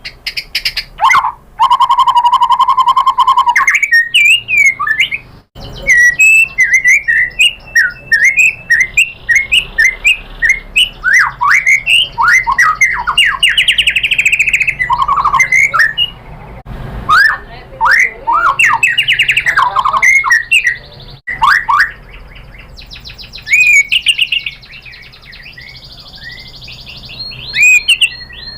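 White-rumped shama (murai batu) singing a rapid, varied song of whistles, slurred glides and trills, with a long buzzing trill about two seconds in.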